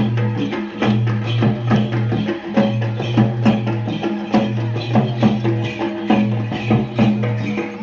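Rajasthani tribal folk music accompanying the Gair dance: rapid, regular percussion strikes, sharp clacks and drum beats a few times a second, over a steady low drone.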